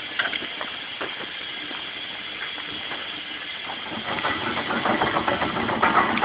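An engine running, growing louder from about four seconds in, with a few sharp clicks near the start.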